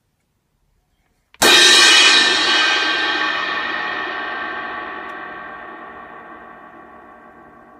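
An 18-inch Zildjian K Dark Medium Thin crash cymbal, one that has been repaired, struck once about a second and a half in and left to ring out. Its bright wash fades slowly, the high shimmer dying first and leaving a lower hum.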